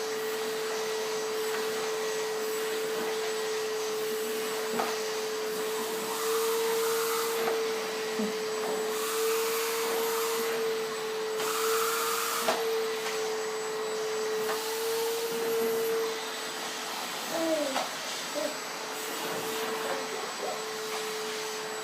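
Vacuum cleaner running with a steady whine. Its rushing noise swells and dips as it is worked, louder for a while in the middle and a little quieter for the last few seconds.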